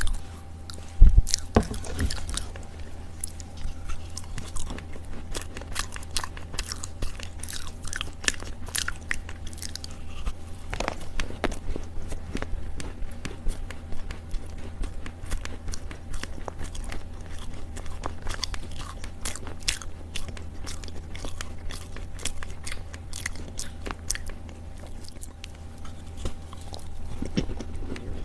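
Chunks of dried Chinese loess crunching and crumbling in a long run of soft crunches, with one sharp, loud crunch about a second in. A steady low hum sits underneath.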